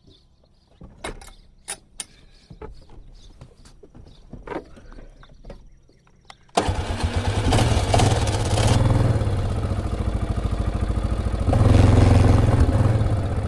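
A few light clicks and knocks, then about two-thirds of the way through a Polaris Ranger utility vehicle's engine starts up suddenly and runs, briefly louder near the end.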